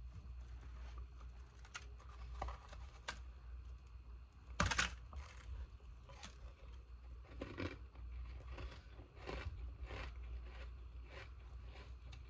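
Ice being bitten and crunched close to the microphone: scattered small clicks, one loud crack about five seconds in, then a run of crunches.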